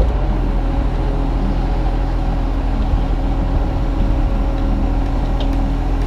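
Kubota U35-3 mini excavator's diesel engine running steadily under load as the arm and bucket are worked through a trench dig.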